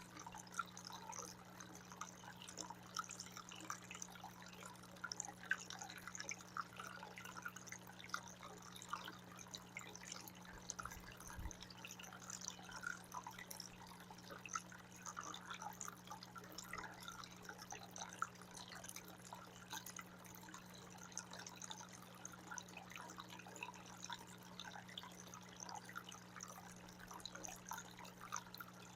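Water fountain running, a steady patter of dripping and splashing water, with a low steady hum underneath.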